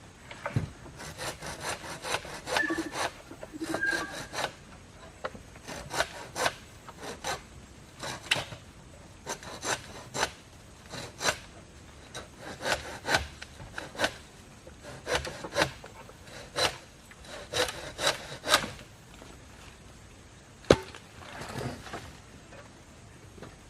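Hand saw cutting wood in runs of quick back-and-forth strokes, with short breaks between runs. There is one sharp knock about 21 seconds in.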